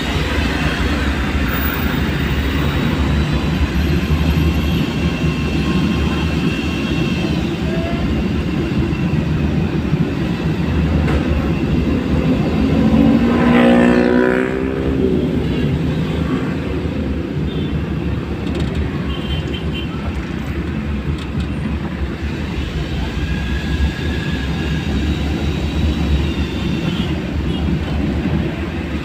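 Steady road traffic and vehicle engine noise with a continuous low rumble. About halfway through, an engine note rises in pitch for a second or two, the loudest moment.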